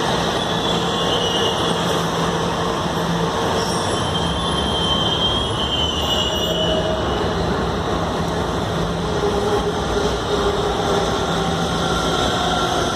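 Washington Metro subway train moving through the station: a steady rumble of wheels on rail, with short high wheel squeals now and then.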